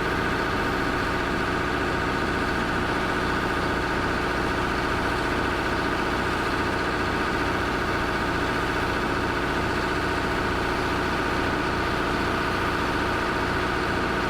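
Excavator engine running steadily at a constant speed, with no revving or change in load.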